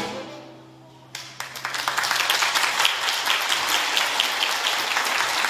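An orchestra's last chord dies away, then audience applause breaks out about a second in and carries on.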